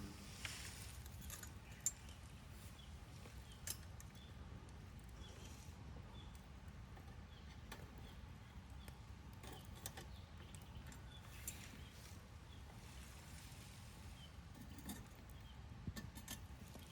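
Campfire crackling quietly, with scattered sharp snaps and pops over a low steady rumble.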